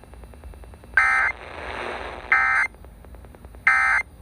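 Emergency Alert System end-of-message data bursts from a weather radio warning: three short, harsh buzzing bursts about 1.3 seconds apart, signalling the end of the warning message.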